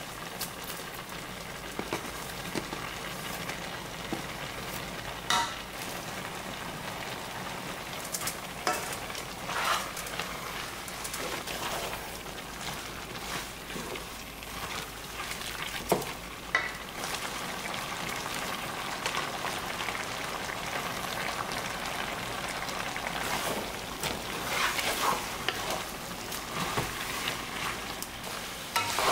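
Bean sprouts and monkfish pieces for agujjim sizzling in a wok while a wooden spatula stirs them, with scattered short clicks and scrapes of the spatula against the pan.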